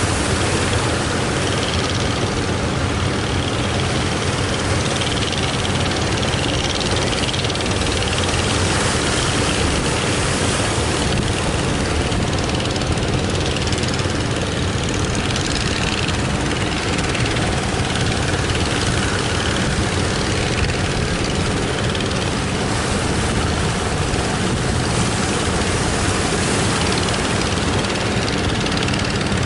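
Strong wind buffeting the microphone: a loud, steady rush with a deep rumble underneath.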